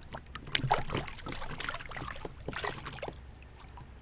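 Water splashing and dripping around a kayak, with a quick run of small knocks and clicks that thins out about three seconds in.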